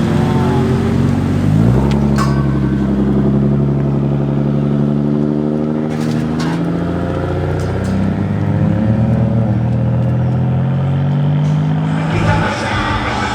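Car engine revving loudly as it pulls away, its pitch climbing sharply about two seconds in, held high, then dropping and rising again midway.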